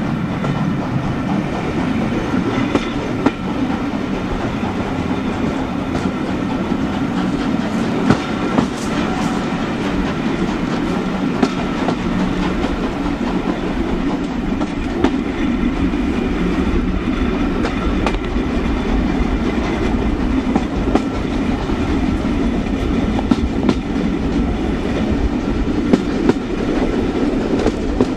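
Railway carriage wheels running over the track at speed, heard from the open window of the rear coach: a steady rumble with scattered sharp clicks from rail joints.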